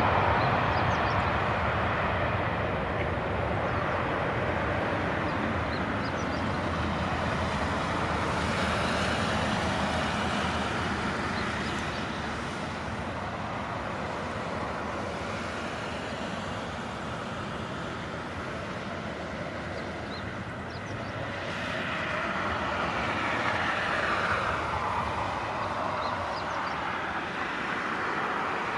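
Airbus A330-300's twin Pratt & Whitney PW4000 turbofans at takeoff thrust during its departure: a steady, loud jet roar that eases a little through the middle and swells again in the last third, with slow sweeping changes in pitch.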